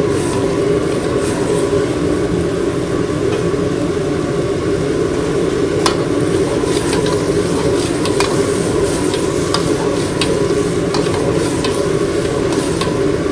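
Steady kitchen and dining-room noise in a busy restaurant, with scattered light clinks of utensils and dishes.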